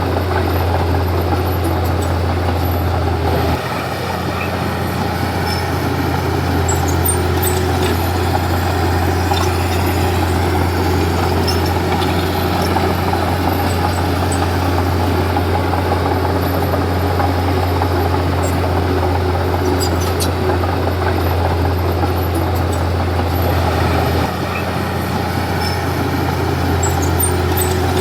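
Komatsu D31P bulldozer's diesel engine running steadily at work, a deep drone with a dense rattle above it; the low drone shifts about four seconds in and again near the end.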